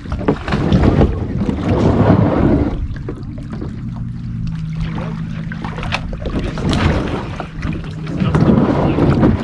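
Wind rumbling on the microphone over water sloshing around kayaks, with a few sharp knocks and a faint steady low hum through the middle.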